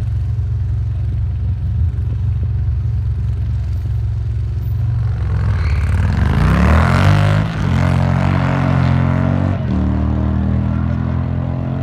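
Drag-racing car engines rumbling at idle, then about six seconds in an engine revs up, its pitch climbing to the loudest point, before settling into a steady engine drone that changes pitch once near the end.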